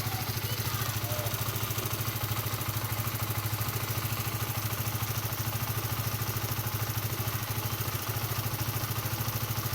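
Honda CBR150R (2016) single-cylinder engine idling with a steady, rapid, even pulse, carrying a strange noise from the engine that the owner takes to be abnormal.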